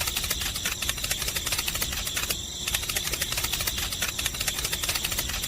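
Homemade mini tractor's small electric motor and gears running, a rapid, even clicking of about a dozen clicks a second over a faint steady whine.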